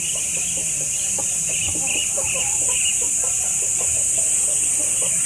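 Short, rapidly repeated bird calls, like clucking, over a steady high-pitched buzz.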